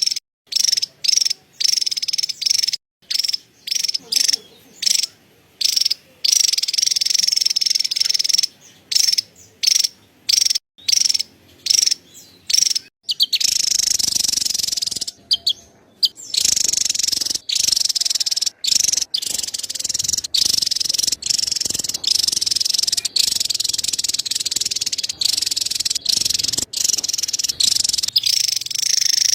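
Javan tesia giving its rapid, high-pitched chattering scold, insect-like and buzzy, in short runs broken by brief gaps for the first half, then almost unbroken from about 13 seconds in.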